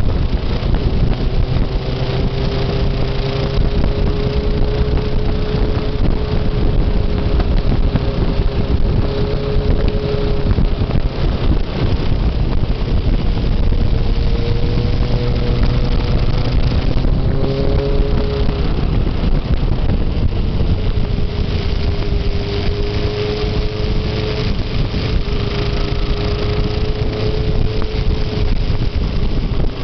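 Motorcycle engine running under way, its note holding steady and then shifting up and down several times as the throttle and gears change, over heavy wind rumble on the microphone.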